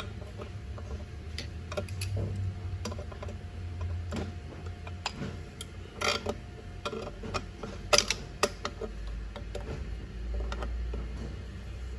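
Scattered metallic clicks and knocks of hand tools and suspension parts being handled, over a low steady hum, with the loudest knocks about eight seconds in.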